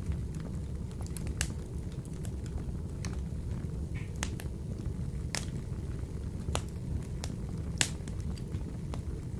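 Wood fire burning in a wood-burning stove: a steady low rumble with irregular sharp crackles and pops from the burning logs, the loudest pop about eight seconds in.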